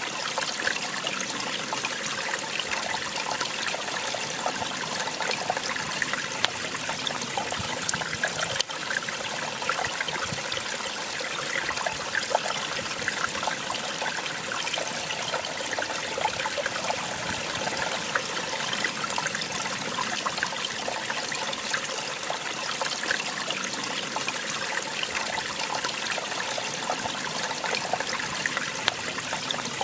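Small waterfall splashing and trickling steadily, with lots of small splashes in the rush of water. There is one sharp click about eight and a half seconds in.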